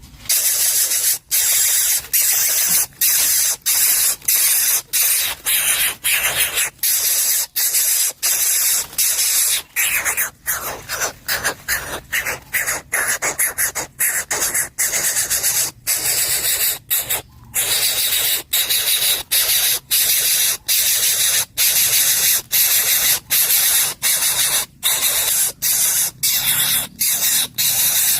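Coucal chick hissing loudly and on and on, the hiss broken by many short pauses.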